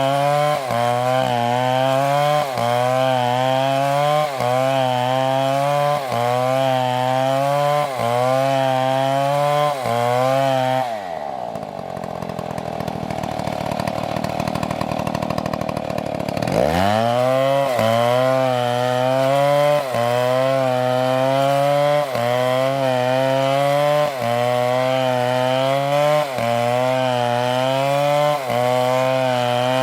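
Chainsaw cutting wood at high revs, its pitch wavering about once a second under the load of the cut. About eleven seconds in, the engine drops to idle, then is revved back up some five seconds later and the cutting resumes.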